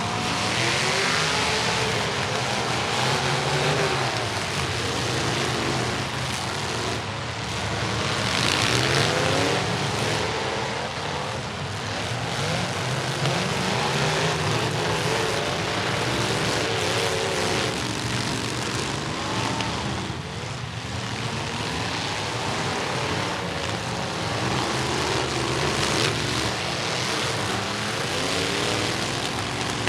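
Several demolition derby trucks' engines running loud and revving, their pitch rising and falling over one another.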